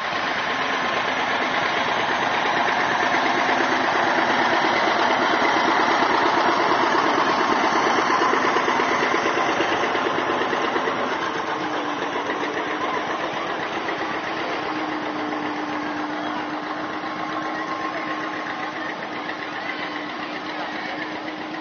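An engine running steadily with a fast, even pulse. It grows louder over the first six seconds and then slowly fades, with a steady hum joining about halfway through.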